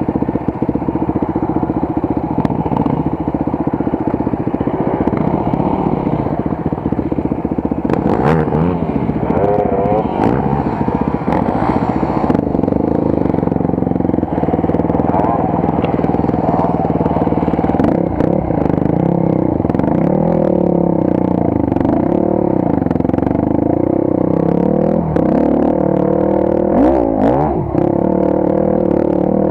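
Motorcycle engine running while riding a rough forest track, its pitch rising and falling with the throttle, with scattered clattering knocks.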